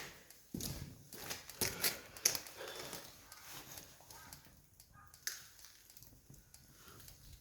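Wood campfire burning, crackling with irregular sharp pops and snaps over a soft hiss; a cluster of the loudest snaps about two seconds in and another single sharp pop a little past five seconds.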